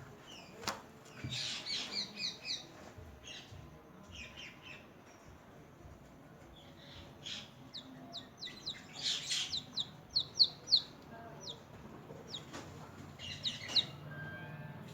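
Newly hatched chicks peeping: short, high peeps in quick runs, busiest and loudest around ten seconds in. A single sharp click sounds about a second in.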